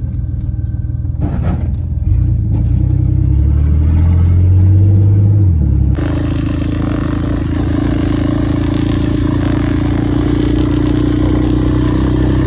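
Vehicle engine running, its note climbing for a few seconds as it accelerates, then an abrupt change to a steady engine drone with a louder hiss over it.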